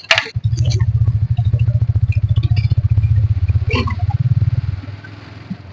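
Motorcycle engine running under the rider, a low pulsing rumble that eases off about a second before the end as the bike slows.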